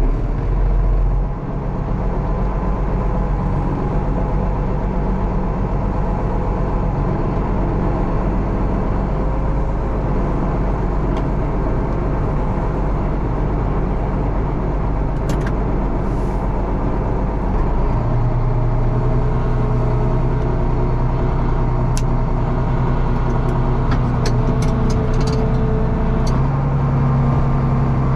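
Farm tractor's diesel engine running steadily, heard from inside the cab. About two-thirds of the way through the engine note shifts to a deeper, stronger steady hum, and a few faint ticks come near the end.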